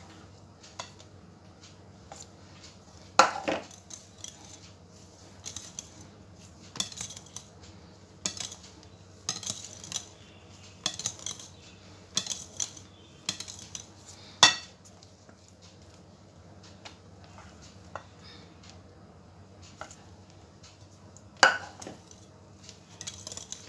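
A spoon clinking and scraping against a mixing bowl as lemon cream is added spoonful by spoonful and folded into whipped cream, with scattered light taps and three louder knocks.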